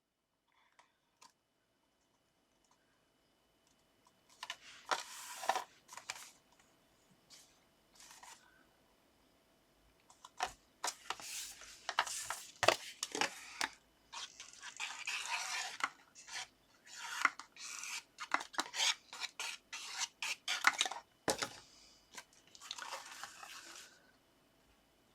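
Paper and card being handled and rubbed down on a craft table: irregular bursts of scraping and rubbing strokes mixed with sharp taps and clicks, starting about four seconds in.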